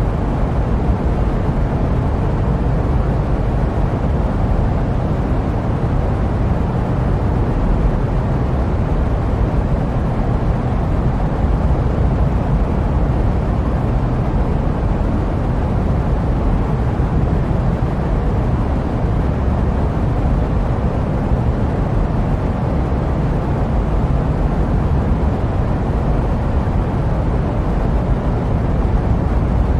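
Jet airplane noise: a steady, unchanging low rumble with most of its weight in the bass and little hiss up high.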